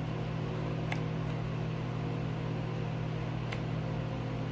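A steady low hum with evenly spaced overtones, like a fan or an electrical appliance, runs throughout. Two short sharp clicks come about a second in and again about three and a half seconds in.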